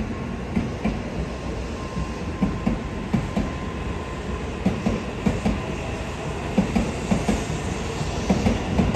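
N700-series Shinkansen bullet train running past on the tracks: a steady low rumble of the cars with irregular clacks of wheels over rail joints, the clacks louder in the second half, and a faint steady whine that fades out about two-thirds of the way through.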